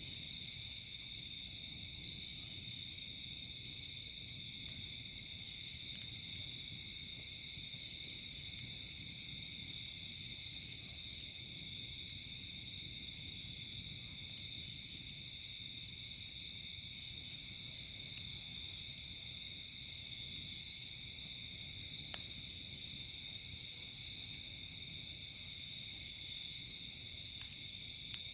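A steady night-time insect chorus of crickets chirping, with a higher buzzing call repeating about every six seconds. A few faint sharp pops from the crackling campfire come late on.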